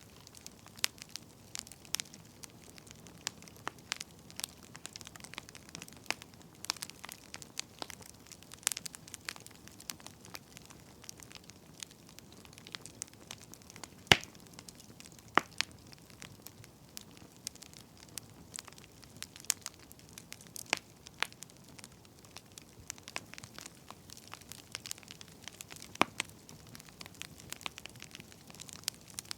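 Wood fire crackling: irregular sharp pops and snaps over a faint steady hiss, the loudest pop about 14 seconds in.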